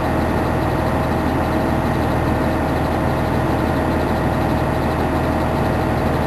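Fire engine's engine running steadily, a low, even rumble with a faint steady tone above it.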